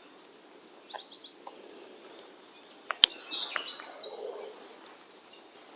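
Small birds chirping in short high calls, with a single sharp click about three seconds in.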